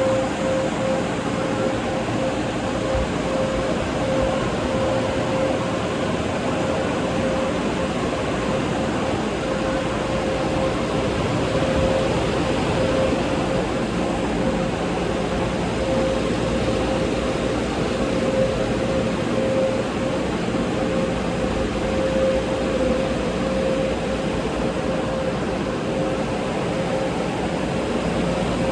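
Automatic tunnel car wash equipment running: a steady rushing noise with a constant mid-pitched whine.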